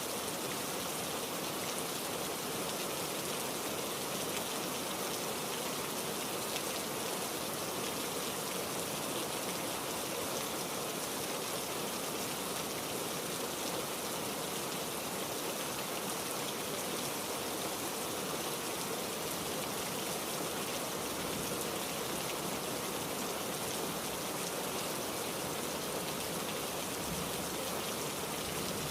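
Heavy rain falling steadily, an even unbroken hiss of drops.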